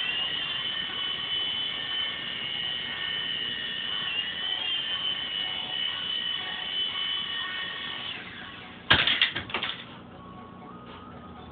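Small 3.5-channel toy RC helicopter's electric motors whining steadily at a high pitch, wavering slightly, then dying away about eight seconds in. About a second later comes a brief clatter of sharp knocks.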